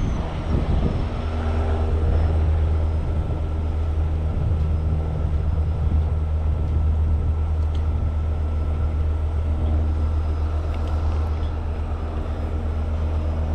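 Heavy tow truck's engine running steadily, a low, even drone that powers the boom and winch during the lift.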